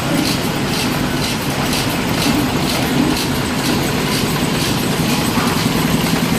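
Stationary engine running, with a steady low hum under a regular clatter of about three beats a second that fades in the second half.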